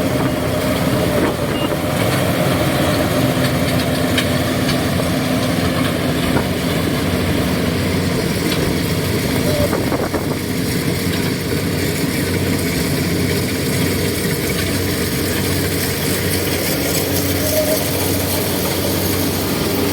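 Kubota DC70G combine harvester running steadily, its diesel engine and harvesting machinery making a continuous even drone.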